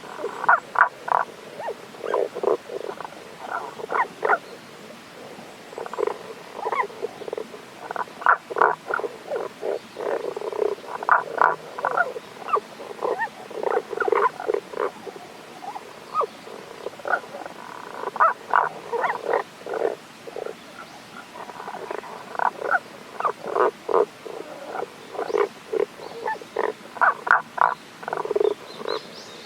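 Tago's brown frogs calling: runs of short, quickly repeated croaking notes that come again and again, several runs often overlapping.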